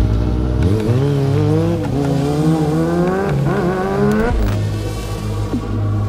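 Motorcycle engine revving, its pitch climbing in several rises before dropping back about four seconds in, over background music.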